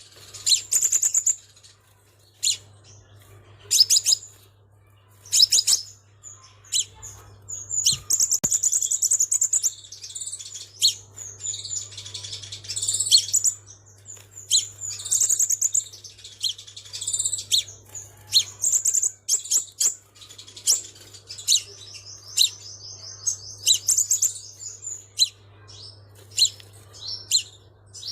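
Sunbird of the kind called 'xác pháo' in Vietnam, singing high-pitched twittering phrases in bursts with short gaps, some of them longer fast trills. A faint steady low hum runs underneath.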